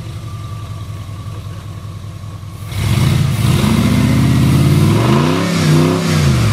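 Off-road truck engine running steadily, then revving hard about three seconds in, its pitch climbing and then dropping away near the end.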